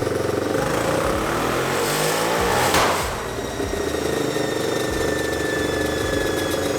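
Turbocharged Yamaha Raptor 660 single-cylinder engine running, revving up to a loud peak about three seconds in and then dropping back to a steady run.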